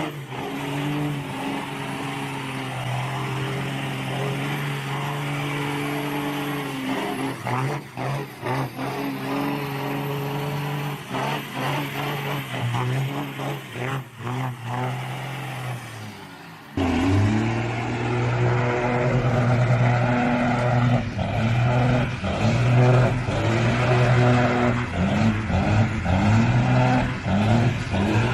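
Motor vehicle engines running in two separate clips. The first holds a steady note with some sharp knocks; after an abrupt cut about 17 seconds in, a louder engine revs, its pitch rising and falling repeatedly.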